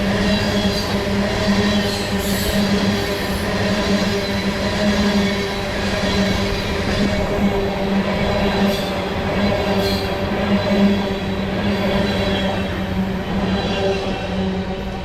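A train rolling past on the track, a loud steady hum over continuous rumble and rail noise, easing off near the end.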